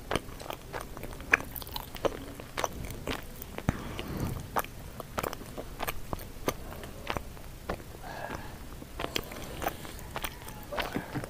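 Close-up chewing of a mouthful of sweet potato leaves and stems, a run of irregular wet crunches and mouth clicks.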